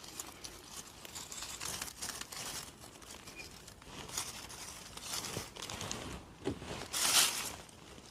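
Rustling and crackling of forest-floor litter, moss and twigs disturbed by hand and foot while picking mushrooms, with a louder rustle about seven seconds in.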